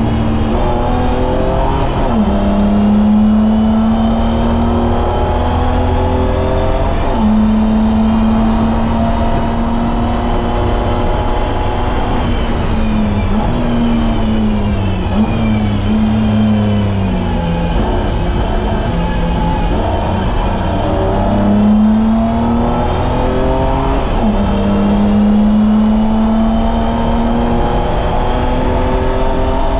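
BMW E30's M20B25 2.5-litre straight-six at racing speed, climbing through the revs with sharp drops at upshifts about 2, 7 and 24 seconds in. In the middle the revs fall with short blips as the car slows and downshifts, over a steady low road rumble.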